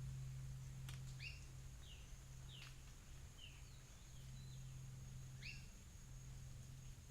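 Faint, short bird chirps, about seven of them over several seconds, some sweeping quickly down in pitch. Beneath them run a steady thin high whine and a low steady hum.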